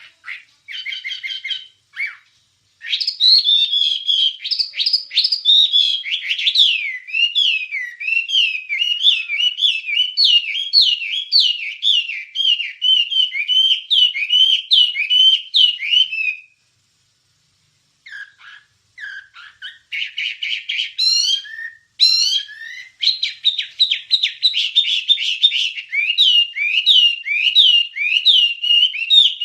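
Wambie songbird singing a long run of fast chirps and warbled sweeping notes. It stops for about a second and a half past the middle, then starts again with rapid trills and chirps.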